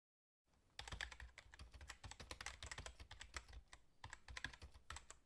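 Faint, rapid, irregular clicking, several clicks a second, starting just under a second in.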